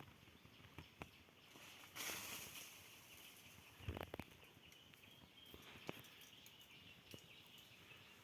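Quiet outdoor background with a short rustle about two seconds in and a few scattered faint clicks. The loudest event is a soft thump about four seconds in.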